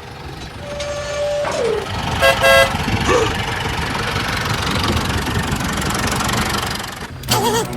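A short horn toot, followed by a steady vehicle engine noise that cuts off abruptly near the end.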